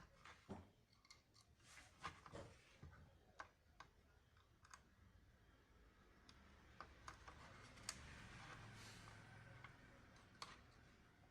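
Faint, scattered clicks and small taps of hand tools working on the stove's circuit board during a resistor replacement, with a soft hiss in the second half.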